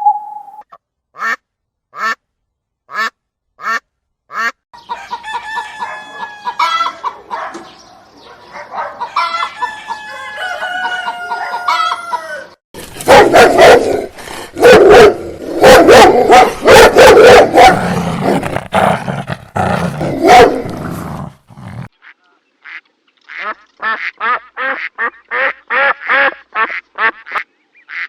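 Domestic poultry calling, mainly geese honking: single calls about once a second at first, then a long stretch of loud, dense honking from a group, then rapid repeated calls near the end.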